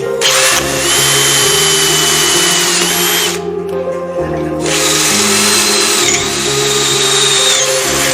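A handheld power tool running in two bursts of about three seconds each, with a short pause between them, over background music.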